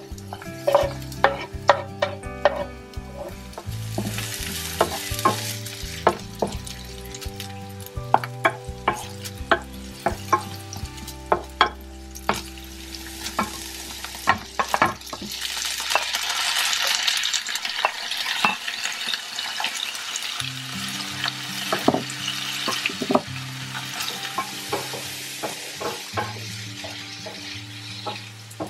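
Onion and garlic sizzling in a frying pan, with a wooden spatula tapping and scraping as they are stirred. About halfway through, tofu cubes go in and the sizzle grows louder and hissier. Soft background music plays underneath.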